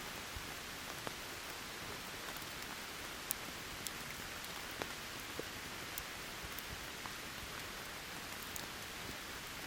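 Steady rain hissing, with scattered sharp pops and ticks from a wood campfire crackling in the rain; the loudest pop comes a little past three seconds in.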